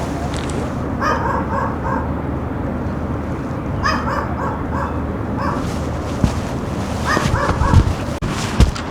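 A small dog yapping in three quick bursts of several high barks each, about a second in, about four seconds in and near the end, over steady low city background noise.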